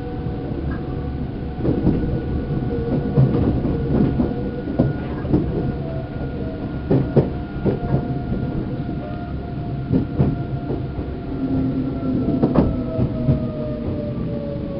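Interior running sound of a Seibu New 2000 series electric multiple unit from its motor car: a steady rumble with wheels knocking over rail joints in clusters. Steady tones from the traction drive start falling in pitch near the end as the train slows.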